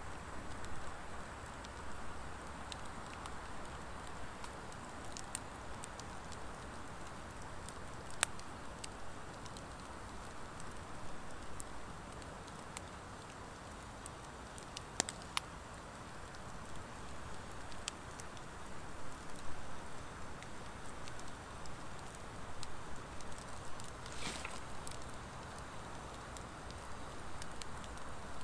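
Wood fire of driftwood and dry hardwood logs burning in an open fire pit: a steady soft rush of flames with scattered sharp crackles and pops every few seconds. There is a brief hiss near the end.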